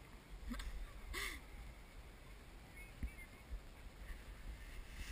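A bird cawing twice, about a second in, over a low rumble of wind on the microphone.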